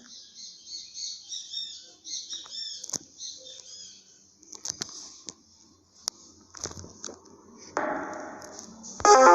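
High-pitched chirping, quick repeated chirps for the first few seconds, then scattered clicks and a brief burst of noise, with loud electronic music cutting in at the very end.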